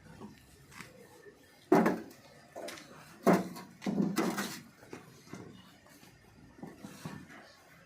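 A series of separate knocks and bangs: two sharp, loud ones about two and three seconds in, then a longer clatter around four seconds, with fainter knocks later.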